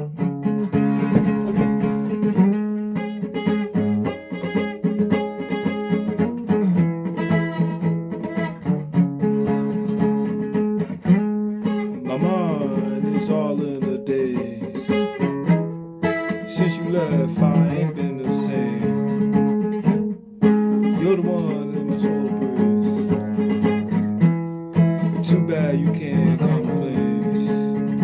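Guitar being played: strummed chords and picked notes in a continuous run of music, with some notes wavering in pitch.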